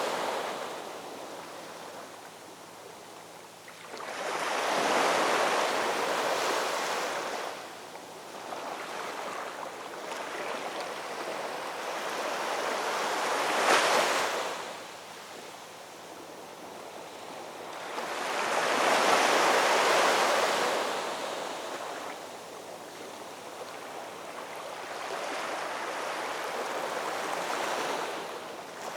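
Ocean waves breaking on a shore, a rushing noise that swells and falls back with each wave, several surges with the loudest crests around a third and two thirds of the way through.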